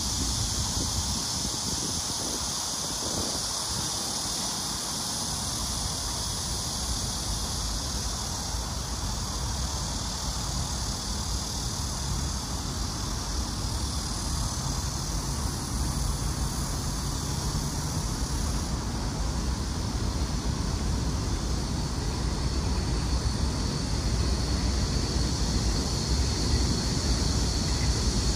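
Heavy rain falling steadily, with a low rumble of road traffic and wind that grows a little louder toward the end.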